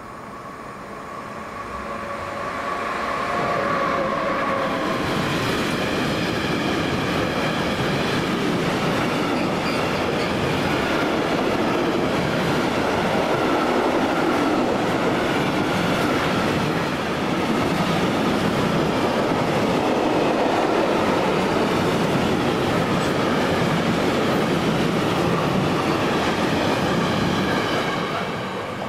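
A train passing close by. It grows louder over the first few seconds with a whine as it approaches, then its wheels rumble and clatter steadily on the rails for over twenty seconds before it fades near the end.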